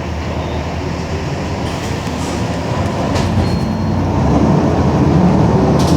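Mercedes-Benz OM-366LA inline-six turbodiesel of a city bus running with a steady low rumble, growing louder about halfway through as the engine works harder.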